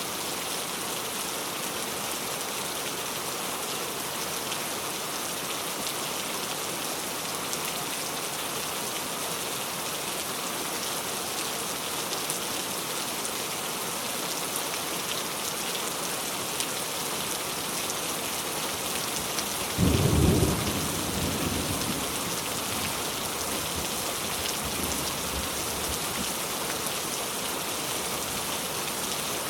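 Steady rain falling, an even hiss, with a sudden loud clap of thunder about two-thirds of the way through that rumbles for a couple of seconds before the rain alone carries on.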